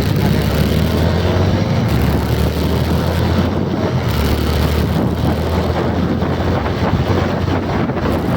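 Loud wind buffeting the microphone, with a steady low drone underneath.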